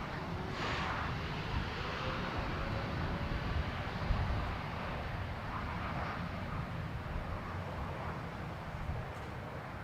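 Jet airliner engines making a steady low rumble with a hiss above it, as at a runway during departures; a faint tone glides slowly upward in the first few seconds.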